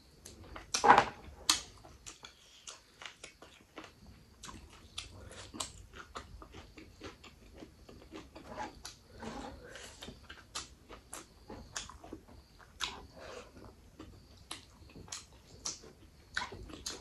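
Close-miked chewing, wet lip smacks and sucking while eating mutton curry and rice by hand, in irregular clicks with a loud smack about a second in.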